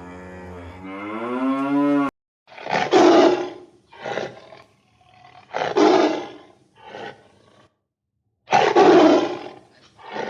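A cow's moo, a long low pitched call rising in pitch and cutting off about two seconds in. Then a series of harsh, noisy roaring calls from a large animal, about half a second to a second each, the loudest three about three seconds apart.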